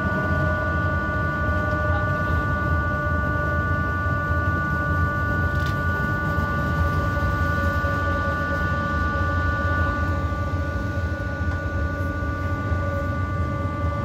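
Rhaetian Railway train running at a steady speed, heard from on board: a steady low rumble of the wheels on the track with a steady high-pitched whine over it.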